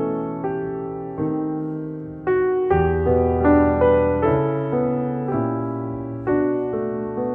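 Background music: slow, gentle piano chords, each struck and left to ring and die away, changing about once a second.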